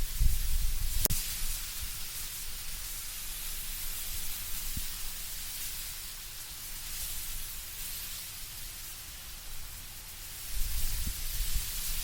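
Wind through autumn trees, a steady hiss of rustling leaves, with low rumbling gusts at the start and again near the end. A single sharp tick comes about a second in.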